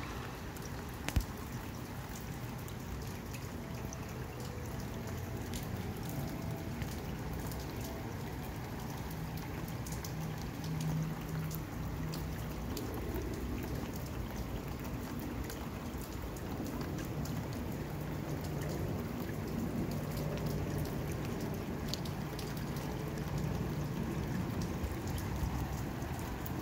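Steady rain falling, with many small drop taps close by and a single sharp click about a second in.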